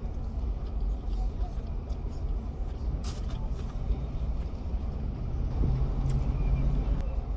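Steady low rumble of a motor vehicle, with a short click about three seconds in and a low hum rising out of it for about a second near the end.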